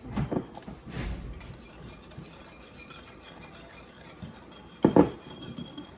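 A spoon stirring seasoning into a liquid marinade, with light clinks against the container. A brief, louder sound comes about five seconds in.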